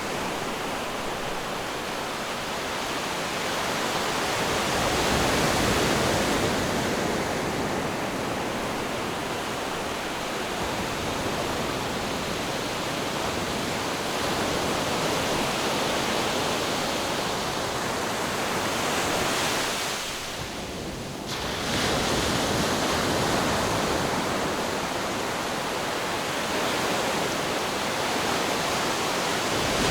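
Ocean waves washing in steadily, the surf swelling and easing every few seconds, with a brief drop in level a little after two-thirds of the way through.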